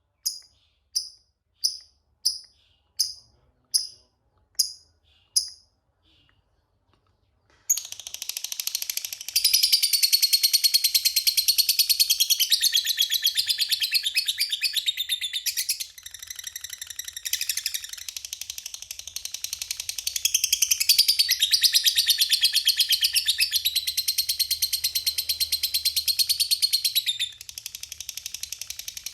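Lovebird calling: about eight short, sharp, high chirps spaced under a second apart, a pause of a couple of seconds, then a long unbroken rapid chattering trill, the 'ngekek panjang' song, that runs on for about twenty seconds and eases off briefly twice.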